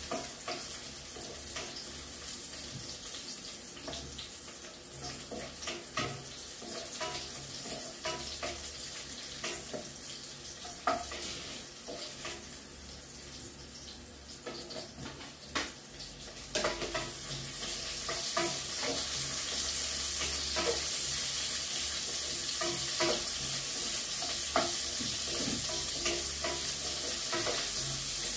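Oil sizzling in a wok over a gas flame, with a metal spatula clicking and scraping as the food is stirred. About sixteen seconds in, food is tipped into the pan and the sizzling becomes louder and stays up.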